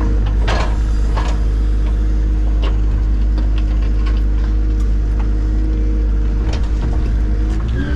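An engine running steadily at a constant speed, a loud low hum with a few light rattles and clicks over it.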